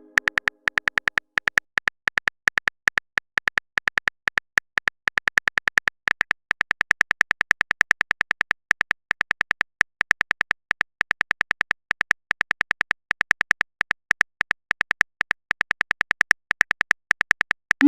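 Typing sound effect for a chat message: a long run of rapid, slightly uneven clicks, about four or five a second. A short rising tone begins at the very end.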